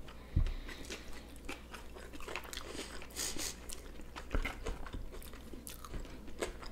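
Close-miked chewing and mouth sounds of people eating sushi rolls, with scattered small clicks and taps and a low thump about half a second in and again about four seconds later.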